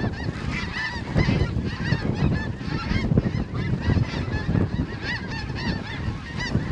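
A large flock of snow geese calling at once: a dense, unbroken clamour of short, high, overlapping honks, over a low rumble underneath.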